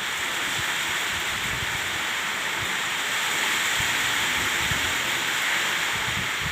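Floodwater rushing steadily, an even hiss of flowing water.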